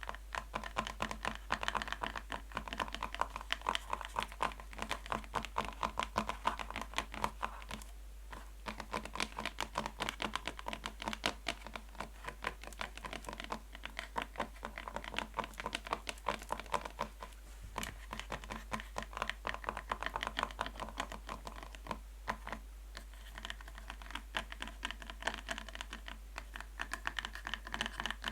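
Natural fingernails tapping fast on a box: a dense run of quick light clicks with a few short let-ups.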